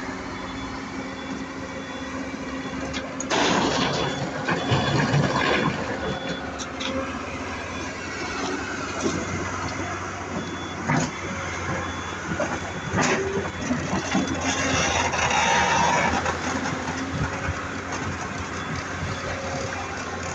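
Diesel engines of excavators and dump trucks running steadily at an alluvial gold mining pit. There are two louder stretches of heavy noise, about three seconds in and again around fifteen seconds, a few sharp knocks, and a faint repeating high beep.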